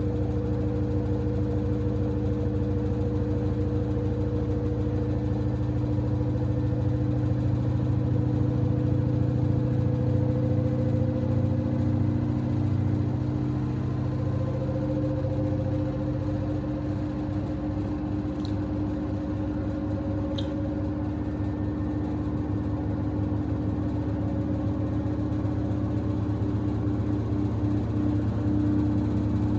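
Samsung WD70T4047CE front-loading washer-dryer running with a steady motor hum and whine, its drum turning continuously, with a slight rise in pitch partway through. Two faint light ticks come a little past the middle.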